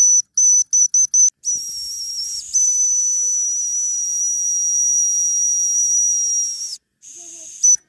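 Small high-pitched steam whistle on a live-steam model engine: a few quick short toots, then one long blast of about five seconds with steam hissing around it, cutting off near the end.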